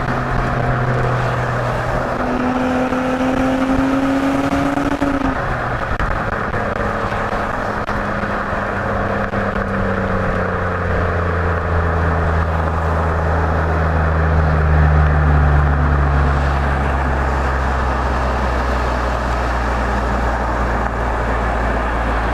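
Exhaust of a 2017 Nissan Maxima's 3.5-litre V6 with the resonator deleted, heard from just above the exhaust tips while driving. Its pitch climbs for a few seconds, drops, then settles into a steady low drone.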